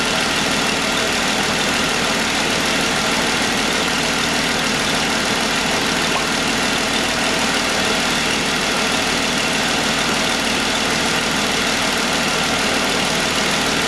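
2015 Jeep Wrangler JK's 3.6-litre V6 idling steadily, left at idle so that trapped air can burp out of the cooling system after a thermostat replacement.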